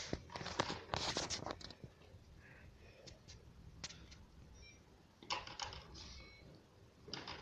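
Irregular clicks and scraping rustles of hands handling gear, in clusters about a second in, again around five to six seconds in, and once near the end.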